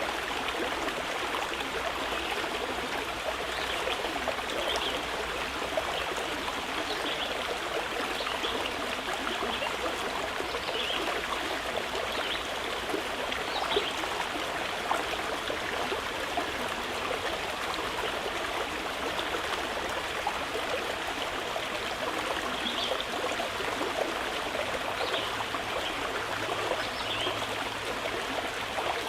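A mountain river rushing steadily over rocks, with faint, brief bird chirps scattered through it.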